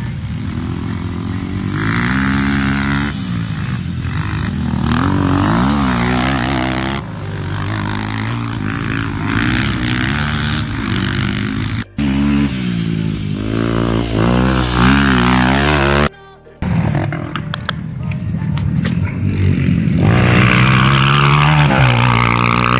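Dirt bike engines revving up and down over and over, the pitch climbing and dropping with the throttle and gear changes, with two abrupt cuts partway through.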